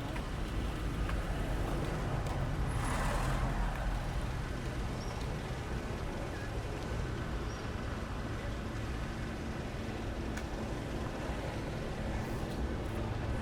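An engine running steadily with a low hum, with a brief rush of noise about three seconds in.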